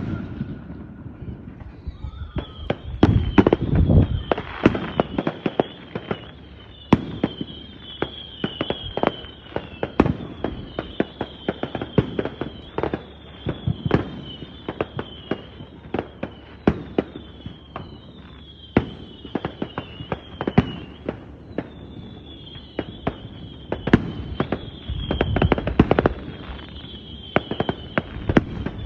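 Fireworks display: many sharp bangs and cracks at irregular intervals, with heavier booming a few seconds in and again late on. From about two seconds in, a short high falling whistle repeats over and over.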